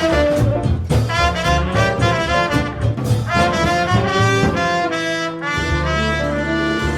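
Up-tempo swing jazz: a big band's brass section, with trumpets and trombones, playing quick rhythmic figures, then going into a long held chord over a sustained bass note about five and a half seconds in.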